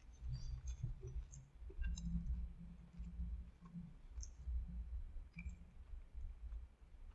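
A mouthful of crispy fried chicken sandwich being chewed: uneven low chewing sounds with faint scattered mouth clicks.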